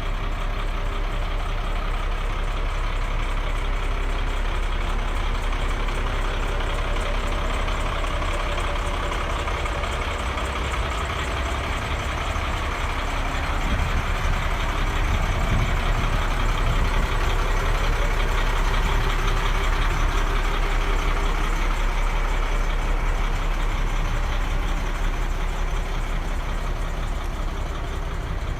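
Ford L8000 truck's diesel engine running steadily at idle, growing somewhat louder about halfway through.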